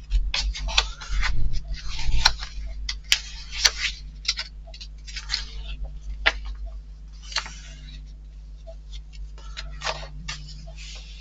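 Small model-kit parts being handled and set down: a run of sharp clicks and short rustles, busiest in the first eight seconds and sparser after, over a steady low hum.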